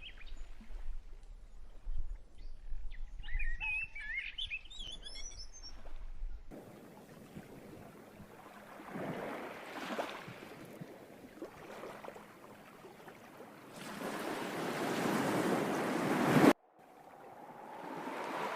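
Birds chirping over a low rumble; then, after an abrupt change, a wash of rushing water like surf, which surges once and then swells louder before cutting off suddenly, leaving a quieter hiss.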